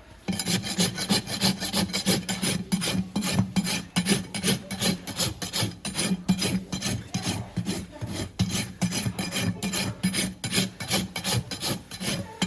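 Farrier's hoof rasp being drawn back and forth across a horse's hoof in quick, regular strokes, shaping and levelling the hoof wall for a new shoe.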